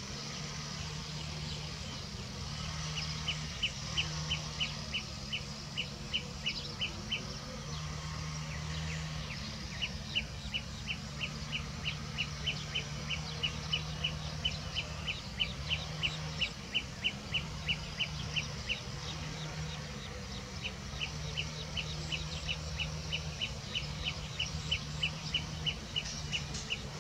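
A bird repeats a short, high call note about three times a second in runs lasting several seconds, with pauses between the runs. A low hum comes and goes underneath.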